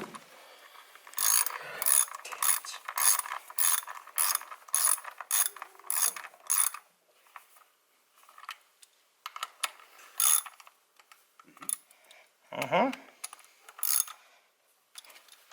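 Ratchet wrench clicking in quick, even strokes, about two a second, as spark plugs are turned. It pauses, then takes a few more strokes near the end.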